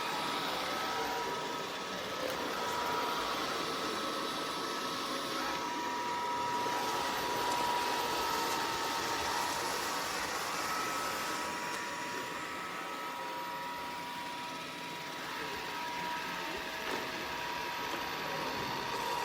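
Dreame X50 Ultra robot vacuum running, a steady rushing motor noise with a high, steady whine over it.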